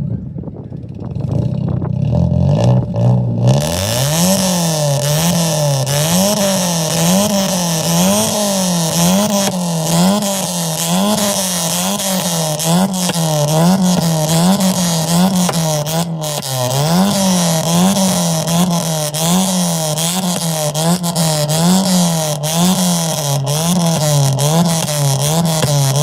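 A car engine revved up and down over and over in a steady rhythm, a little more than once a second. It starts low and picks up to full revving about three or four seconds in.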